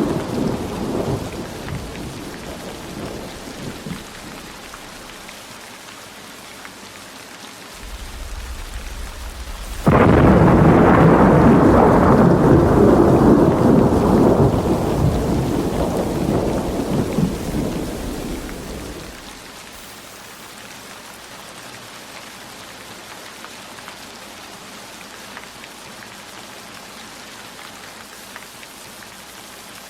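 Steady heavy rain with thunder: a roll of thunder fades out over the first few seconds, then a loud thunderclap strikes about a third of the way in and rumbles away over the next nine seconds, leaving only the even hiss of rain.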